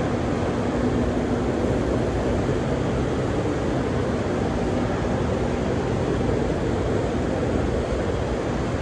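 Steady, loud background noise of a truck assembly plant floor: a constant rush of ventilation and machinery, with a faint hum in the first couple of seconds.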